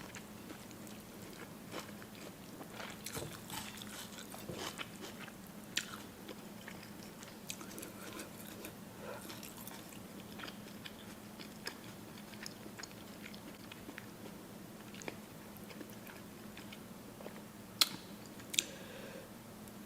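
Close-miked eating: chewing and biting with many small wet mouth clicks, and two sharper clicks near the end, over a faint steady hum.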